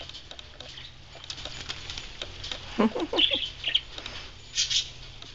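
Small parrots bathing in a shallow dish of water: light splashing and wing flutters, with a few short bird chirps and calls about midway.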